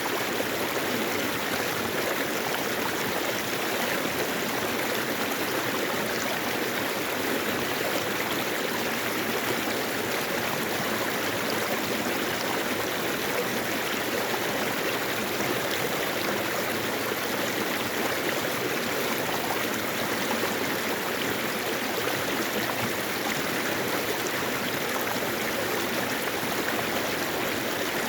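Mountain stream flowing over rocks, a steady rush of water that does not change.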